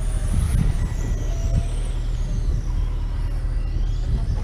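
Racing motorcycle engines running on a circuit, their high whines rising and falling in pitch as the bikes accelerate and brake, over a steady low rumble.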